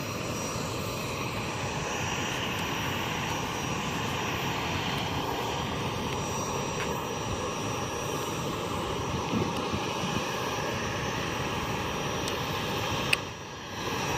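Jet airliner's engines running with a steady rushing drone and a faint high whine. A sharp click comes about 13 seconds in, followed by a brief dip in the sound.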